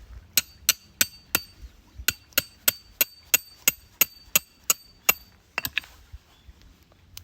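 Hammer driving a metal tent peg: about fourteen sharp, ringing metal-on-metal blows at roughly three a second, with a short pause after the fourth and two quick lighter taps near the end.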